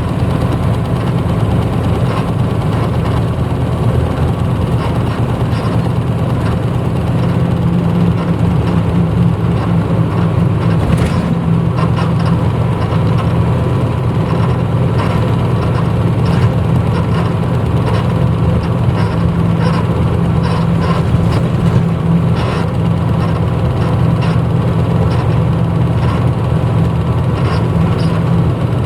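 Diesel engine of a 1994 Hino Blue Ribbon U-HT2MPAA city bus, heard from inside the cabin running at a steady, unchanging speed. Occasional short clicks and rattles from about a third of the way in.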